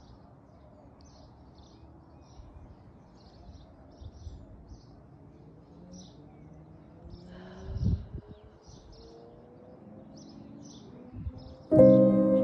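Small birds chirping in short calls over a faint outdoor background noise, with a low thump about eight seconds in. Near the end, new-age music starts loudly.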